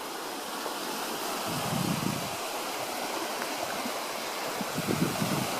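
Small Baltic Sea waves washing onto a sandy beach: a steady hiss of surf that swells up briefly twice, about two seconds in and near the end.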